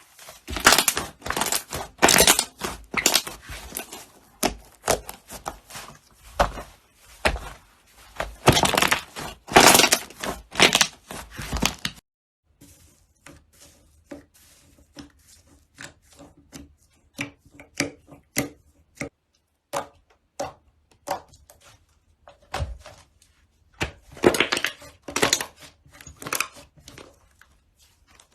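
Slime being squeezed, poked and stretched by hand: a dense run of sticky clicks, crackles and squelches, cut off sharply about twelve seconds in and followed by softer, sparser clicking with a louder burst near the end.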